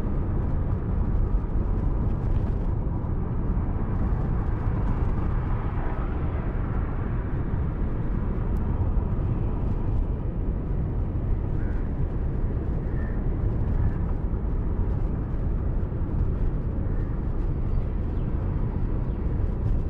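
Steady rumble of a car driving, with road and engine noise heard from inside the cabin by a dashcam microphone.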